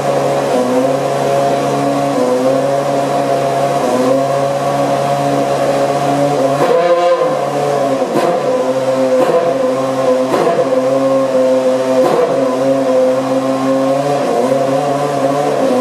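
Ferrari Formula 1 car engine running at a steady idle, with a brief change in note about seven seconds in and a few short flickers after it.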